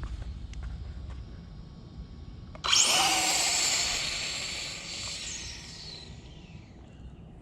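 Brushless electric motor of an RC drag pan car on a 3S battery making a pass: a sudden high whine starts about two and a half seconds in, rising in pitch at launch, then fades over a few seconds as the car runs away down the strip.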